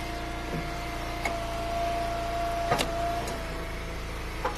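Wood splitter running steadily with a constant mechanical hum, with three short sharp cracks or knocks as the wood is worked.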